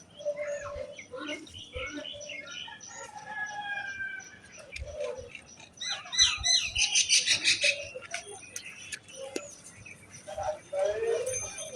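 Birds calling and chirping, with a burst of rapid high chatter about six seconds in.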